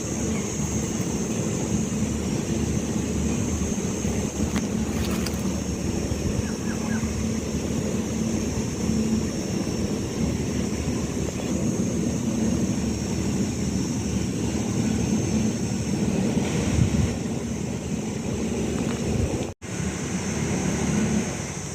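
Steady low rumble of a running engine, with a steady high hiss above it; the sound cuts out for an instant near the end.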